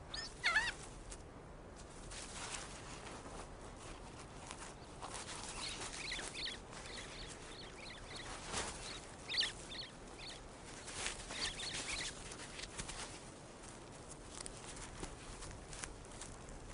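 Keas digging at a shearwater burrow, with scratching and scuffing of earth and short, high, squeaky bird calls coming in several bunches.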